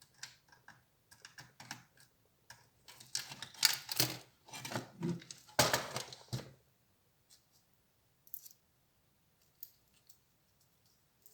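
Irregular clicks, taps and short scrapes of an HP Compaq 6910p laptop's parts being handled and worked apart, busiest for about the first six seconds, then only a few isolated clicks.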